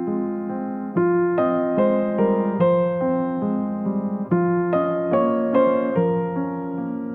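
Background music: a slow, gentle electric piano playing soft chords and notes, each struck and left to fade.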